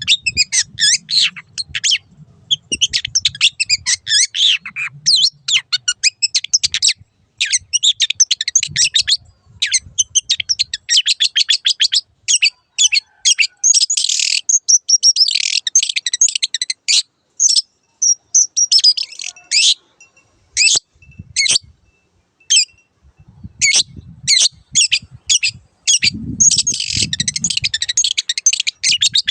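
Long-tailed shrike singing a fast, chattering song of rapid, scratchy notes. Dense runs of twittering alternate with short gaps, and a stretch of separate sharp notes falls about two-thirds of the way through.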